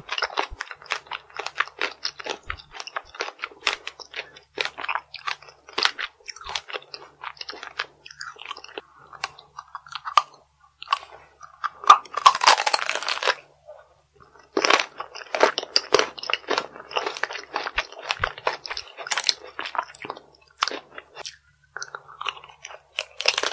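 Close-miked crunching and chewing of chocolate strawberry tanghulu, the hard candy-and-chocolate shell cracking in many quick crunches. There is a louder, noisier stretch about halfway through and brief pauses between mouthfuls.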